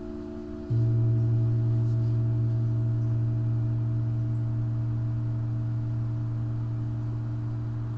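Singing bowls ringing in several steady, held tones. Under a second in, a new deep bowl tone starts abruptly, becomes the loudest, and slowly fades over the rest.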